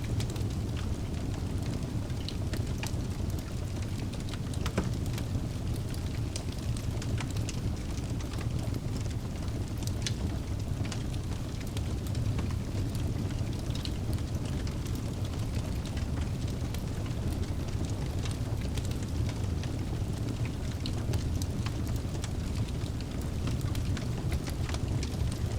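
Wood fire burning in a fireplace: a steady low rumble from the flames with many sharp crackles and pops scattered throughout.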